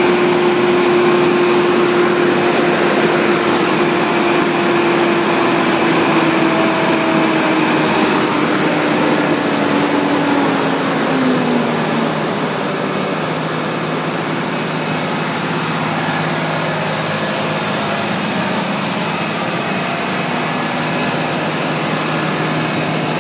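Volvo FH truck's diesel engine held at high revs for an SCR catalytic converter regeneration, burning off oil passed into the exhaust by a failed turbo. It runs loud and steady; a whine sinks slowly in pitch over the first dozen seconds and gives way to a lower steady note.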